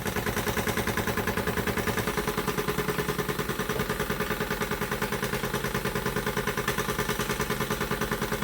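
Retrol SE-02 model steam mill engine running under load while driving a small generator: a rapid, even mechanical beat with a steady hum beneath it. The running is a little loud, which the owner puts down to the engine being brand new and not yet bedded in, and to the wooden board it sits on moving about.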